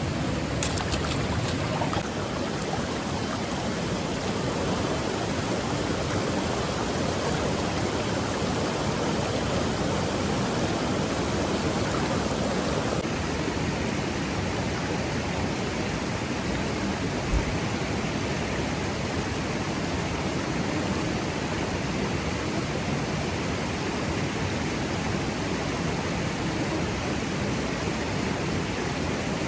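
Steady rushing of water, even and unbroken, with a single low thump about two-thirds of the way through.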